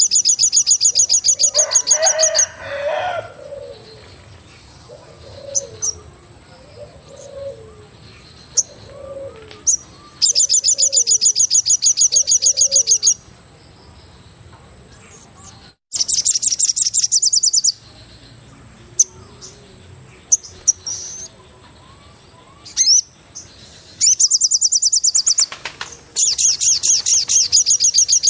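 Forest birdsong: loud, very rapid high trills lasting a few seconds each, at the start, about ten seconds in, around sixteen seconds and twice near the end. Between them comes a series of soft low coos, about one a second through the first half, like a dove.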